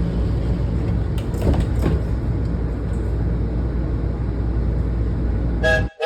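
Washington Metro train running with a steady low rumble after its doors have closed, with a few knocks about one and a half seconds in. Near the end a brief multi-pitched tone sounds and the sound cuts off abruptly.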